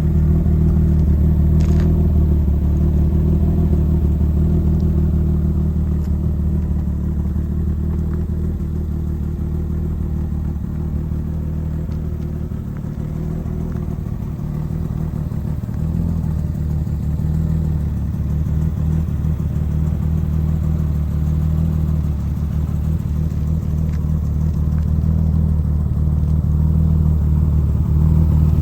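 Car engine idling steadily: an even, low drone with no revving.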